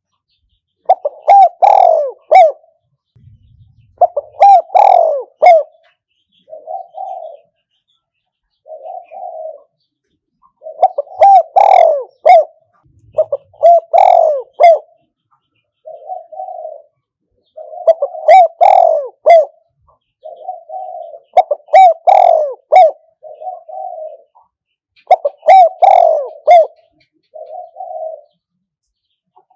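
Spotted dove cooing loudly, a decoy bird's call of the kind used to lure wild spotted doves to a trap. Phrases of several coos come every three to four seconds, with softer single coos in between.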